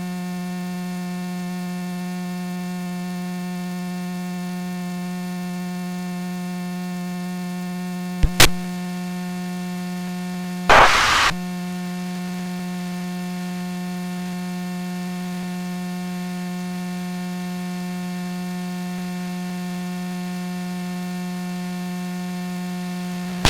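Steady electrical hum with a buzzy, even tone in the aircraft's intercom and radio audio feed. It is broken by a sharp click about 8 seconds in and a brief burst of radio static about 11 seconds in.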